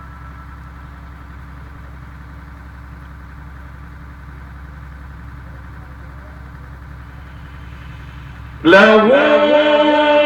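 Steady low hum and hiss of the recording during a pause in Quran recitation. About eight and a half seconds in, a man's voice sets in loudly, chanting the next verse in melodic tajwid style with long gliding, ornamented notes.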